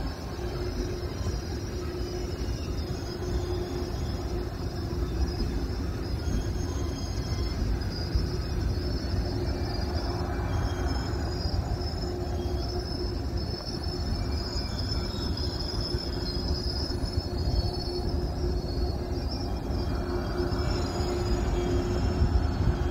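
ETR 500 Frecciarossa high-speed train rolling along a station platform, with a steady rumble and hum and a high-pitched wheel squeal.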